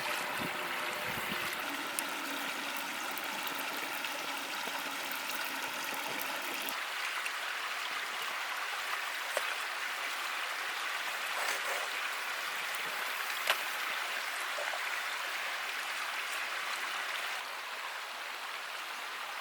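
Steady rush of running water, like a small stream, with a few faint clicks; its tone shifts slightly about seven seconds in and again near the end.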